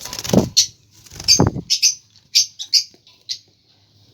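Small caged parrots (budgerigars and lovebirds) chirping in short, high, repeated calls, with two brief fluttering bursts of wings in the first second and a half.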